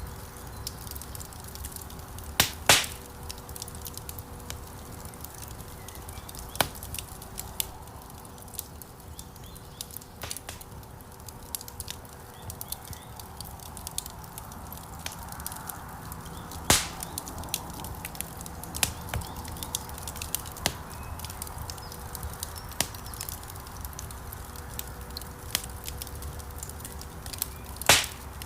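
Wood fire crackling in a stone fireplace, with many small ticks and pops over a soft flame rustle, and three louder snaps of burning logs: one about two and a half seconds in, one around the middle, and one near the end.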